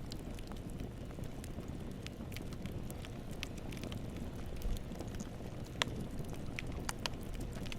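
Wood campfire burning, crackling with scattered sharp pops over a steady low rumble of the flames. One pop is louder than the rest, about three-quarters of the way through.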